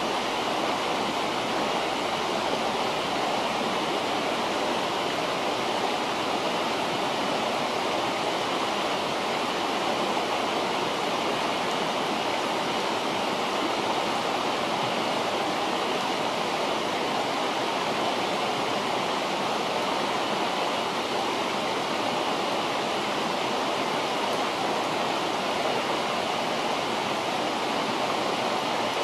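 River water rushing steadily, an even unbroken wash of noise.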